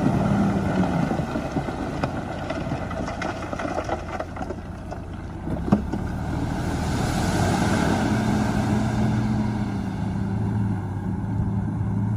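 Heavy diesel engine of earthmoving machinery running steadily, with a single sharp knock about halfway through and a rushing hiss for a few seconds after it.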